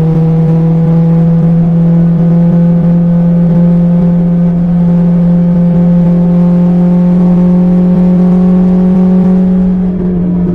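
BMW S1000XR's inline-four engine through an Akrapovic exhaust, running steadily under way with its pitch rising slowly, then easing briefly near the end.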